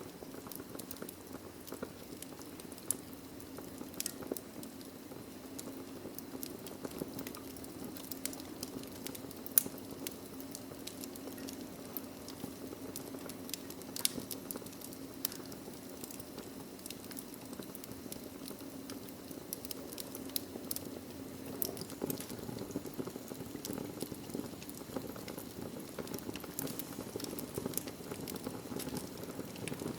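Wood fire burning in a fireplace: logs crackling with scattered sharp pops over a steady low rush of flame, with one louder pop about nine and a half seconds in.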